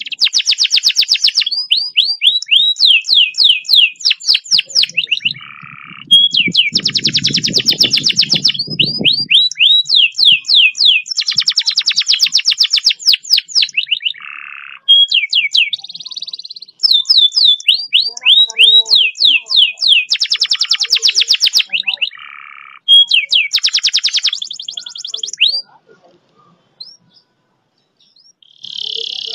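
Domestic canary singing long, fast rolls: rapid runs of repeated downward-slurred notes in phrases of a few seconds separated by short breaks, with a pause of a few seconds near the end.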